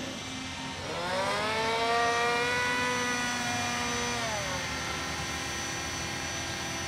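Radio-controlled model aircraft's motor and propeller throttling up with a rising whine, holding a steady pitch for a couple of seconds, then throttling back down about four seconds in.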